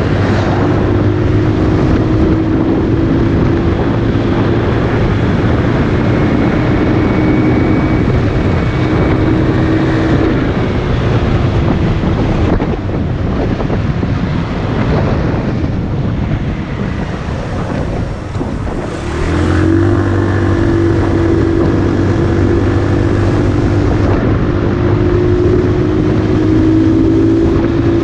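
Motorcycle engine running at a steady pace while riding, under heavy wind noise on the microphone. For several seconds in the middle the engine note drops away, leaving mostly wind, then it comes back steady.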